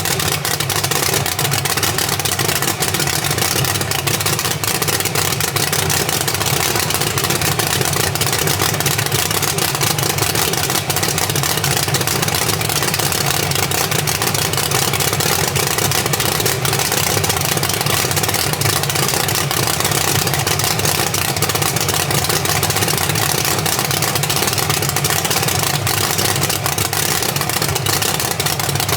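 A vehicle running steadily, its engine and rolling noise continuous and unchanging.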